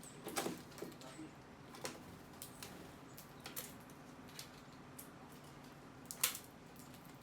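Small birds feeding, making irregular sharp clicks and taps of beaks and feet on seed; the loudest tap comes about six seconds in.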